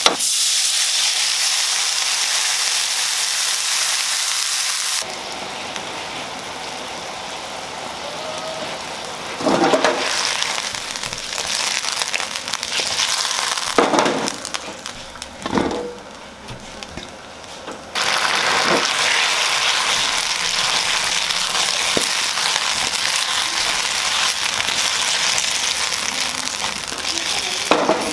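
Sausage pieces sizzling as they fry in a wok. The sizzle drops suddenly about five seconds in to a quieter stretch with a few knocks, then comes back loud from about two-thirds of the way through.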